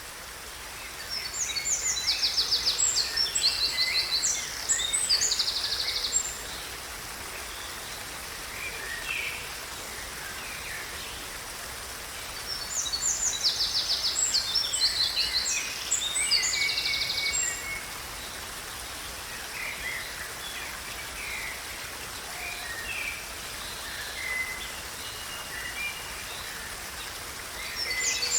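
Songbirds singing in two bouts of loud, rapid trilled phrases with softer scattered calls between, over a steady background hiss of water or wind.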